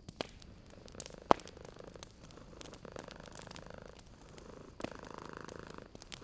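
A cat purring steadily, with the crackle and sharp pops of a wood fire. The loudest pop comes about a second in.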